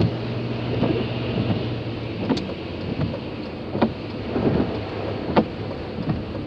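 Heavy rain pelting a moving car, heard from inside the cabin: a steady wash of rain with irregular sharp hits of large drops on the roof and windshield.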